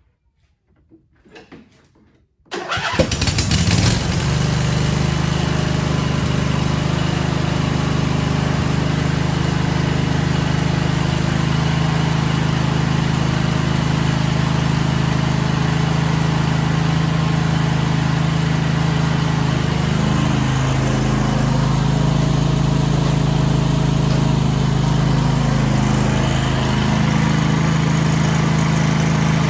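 Craftsman T1000 lawn tractor's two-cylinder Briggs & Stratton engine cranking and catching about two and a half seconds in, then running steadily, with a slight change in pitch about two-thirds of the way through.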